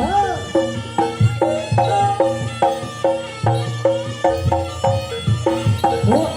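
Live traditional Javanese percussion music of the kind that accompanies a jaranan trance dance. Drum strokes sit under a quick, repeating pattern of short, pitched struck notes, with a sliding pitched cry that rises and falls just after the start and again near the end.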